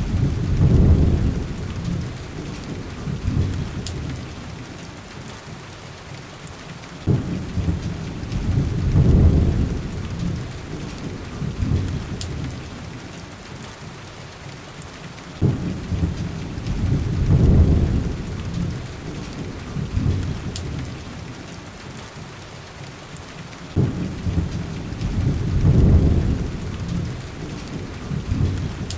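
Heavy rain falling steadily, with low rolling thunder rumbles that come back at even spacing about every eight seconds. Each rumble starts sharply, swells for a couple of seconds and then fades.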